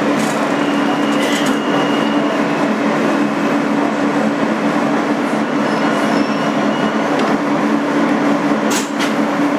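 A New York City subway train heard from inside a 2008 Kawasaki R160B car: a steady rumble with a steady low hum running through it, and a couple of sharp clicks near the end.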